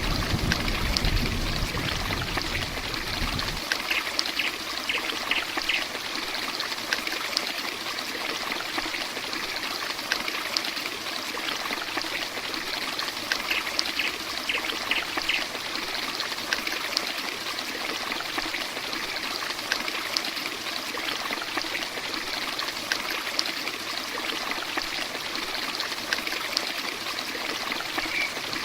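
Heavy rain falling steadily, a dense hiss full of small drop ticks. A low rumble under it stops about three and a half seconds in, and twice there is a short run of quick high chirps.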